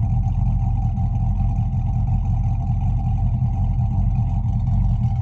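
Car exhaust fitted with turbo mufflers and its engine running steadily, heard from inside the cabin as an even, low rumble.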